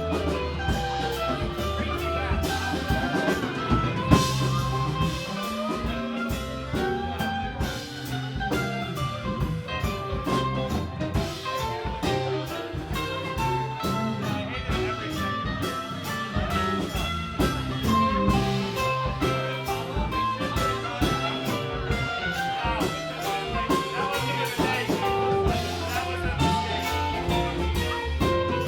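Live band music with guitar, bass and drum kit playing a blues-rock groove.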